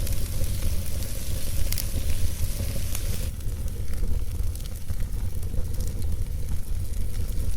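Campfire burning with a hissing sizzle over a steady low rumble, broken by sharp pops, two of them within the first three seconds; the hiss thins out about halfway through.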